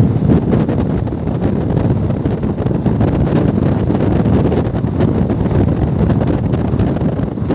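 Express passenger train running at speed, heard from on board: a steady low rumble of the moving train under wind buffeting the microphone.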